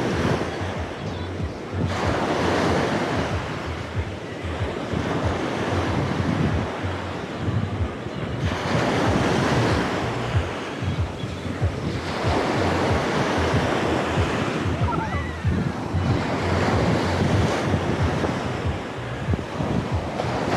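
Sea waves breaking and washing onto the beach in repeated surges a few seconds apart, with wind buffeting the microphone.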